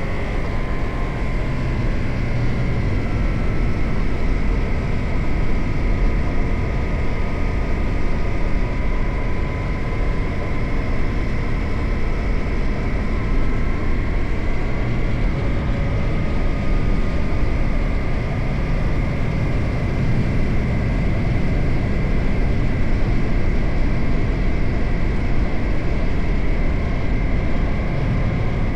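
Suzuki GSX-8R motorcycle's parallel-twin engine running at a steady cruise under a heavy low rush of wind and road noise, its pitch drifting gently up and down.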